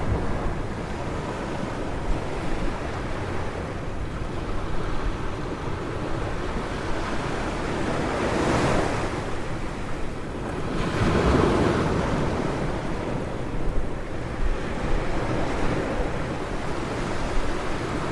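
Ocean surf washing onto a beach, a steady rush with two waves breaking more loudly about halfway through. Wind rumbles on the microphone.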